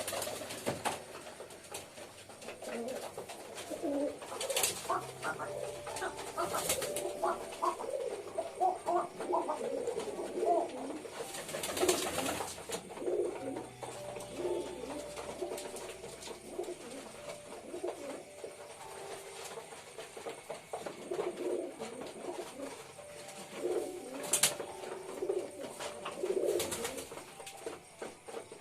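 Several domestic pigeons cooing, their low calls overlapping continuously, with a few sharp clicks or knocks standing out.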